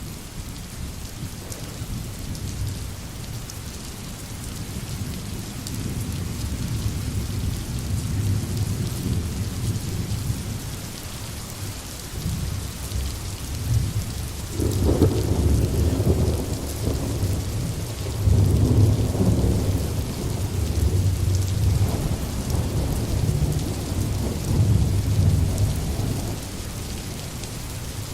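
Steady rain falling on a forest, an even hiss throughout. Deep low rumbles swell beneath it, loudest about halfway through and again a few seconds later.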